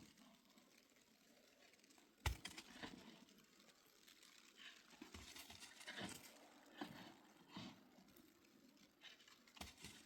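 Faint, irregular rustling and small knocks, with one sharper knock about two seconds in.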